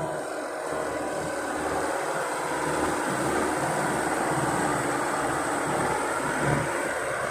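Kubota farm tractor's diesel engine running steadily as it works the field, mixed with wind noise on the microphone.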